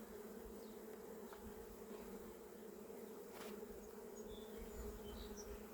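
Honey bees buzzing at an opened hive, a faint steady hum.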